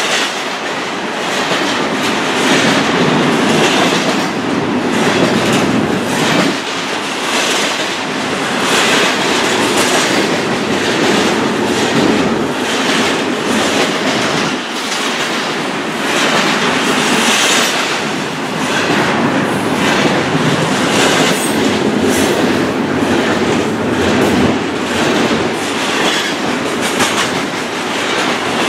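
Long freight train rolling past close by: continuous loud wheel-on-rail noise with a repeating clickety-clack of wheels over rail joints.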